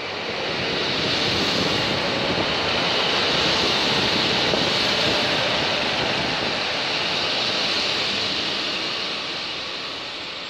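Class 156 diesel multiple unit passing close along the platform: a steady rush of engine and wheel-on-rail noise that swells over the first couple of seconds and fades toward the end as the train moves away.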